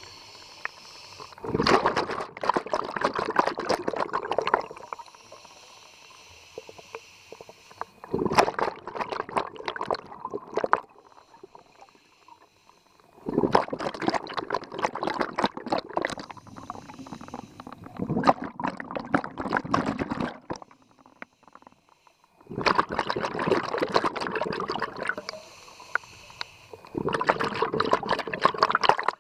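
Scuba regulator breathing underwater: a loud rush of exhaled bubbles about every five seconds, six times, with a quieter hiss of inhaling through the regulator in between.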